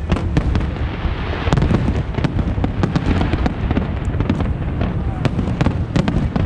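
Fireworks display: a dense, irregular run of sharp bangs and crackles, several a second, over a continuous low rumble of booming shells.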